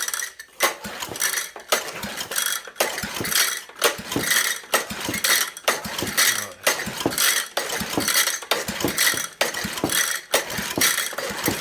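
Honda 200cc single-cylinder engine being cranked over and over with its pull-start for a compression test, a repeated mechanical stroke about once a second. The gauge comes to about 75 psi, poor compression that the owner puts down to piston rings stuck to the piston.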